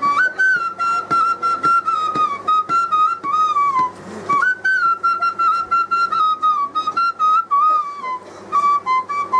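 Bamboo flute (bansuri) blown through the nose, playing a melody of short, separated notes held mostly on one high pitch. The phrase sinks and pauses near the middle, and a new phrase starts about four and a half seconds in.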